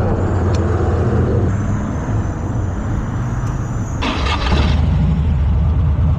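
Motorcycle engine running under way, a steady low rumble mixed with wind and road noise, with a brief rush of noise about four seconds in.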